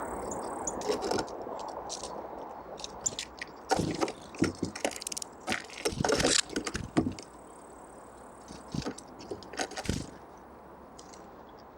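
Small forest birds pecking and cracking seeds close to the microphone: irregular sharp taps and cracks, coming in a quick run about four to seven seconds in.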